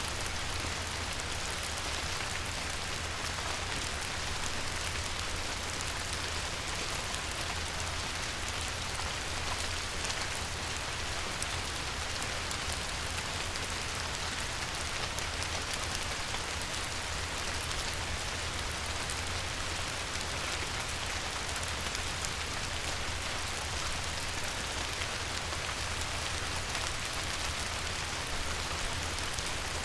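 Light rain falling steadily on a river, a dense even patter of drops, with a low steady rumble underneath.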